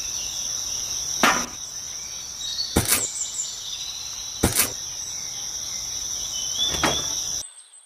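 Steady high insect chirring, like crickets, with four sharp knocks about a second and a half apart. Everything cuts off suddenly near the end.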